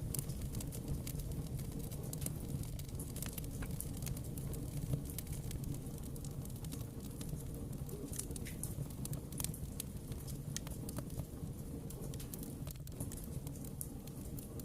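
Fireplace fire crackling, with frequent small irregular pops over a steady low rumble of the flames.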